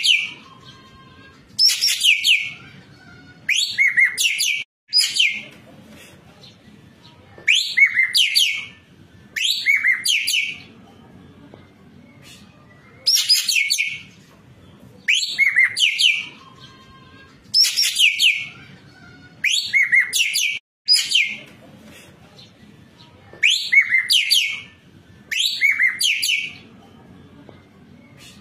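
Ekek keling singing loudly and repeatedly: about a dozen short phrases of rapid, high chirps and sweeping whistles, each about a second long, coming roughly every two seconds.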